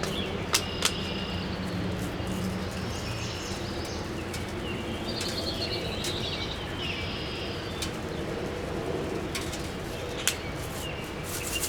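Birds chirping in short high calls over a steady outdoor background, with a few sharp clicks scattered through.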